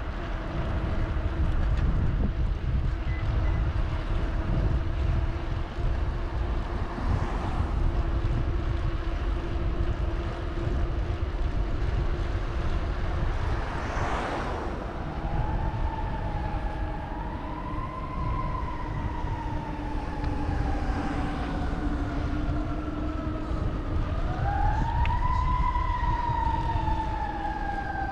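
An emergency vehicle's siren wailing, starting about halfway through and slowly rising and falling in pitch, with a sharp climb again near the end. Wind rumble on the microphone runs underneath.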